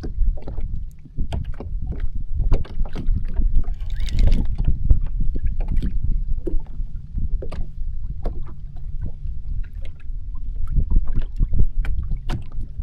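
Water slapping and splashing irregularly against a jet ski's hull, over a steady low rumble.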